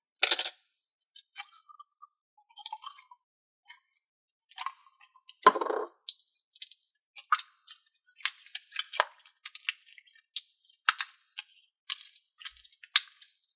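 Neon slime being squeezed and pulled in the hands: irregular small sticky pops and clicks, with one louder squish about five and a half seconds in.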